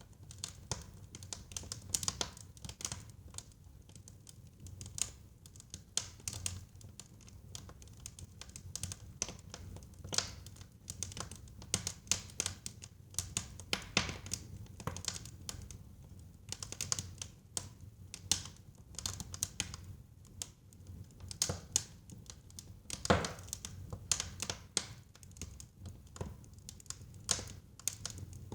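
Wood fire burning in a fireplace, crackling with irregular sharp pops of varying strength over a low steady rumble, one louder pop a little past the middle.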